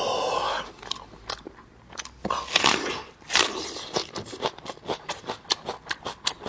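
Close-miked eating of spicy braised ribs. There is a loud bite at the start and another about two seconds in, then steady chewing of the meat at about three or four chews a second.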